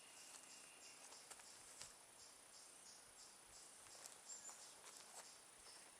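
Faint insects chirping: short high-pitched pulses repeating about three or four times a second over a thin, steady high whine.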